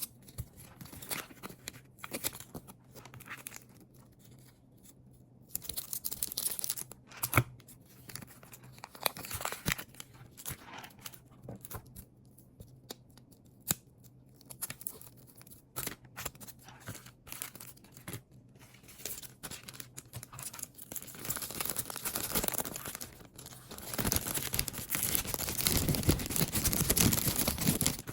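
Packing sounds: scattered rustles, taps and crinkles of packaging being handled. Near the end these build into a few seconds of continuous, louder tearing and crinkling.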